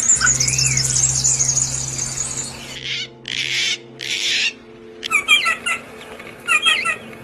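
Birds calling: a high, rapid twittering for the first few seconds, then two short harsh, raspy calls, then quick clusters of short chirps.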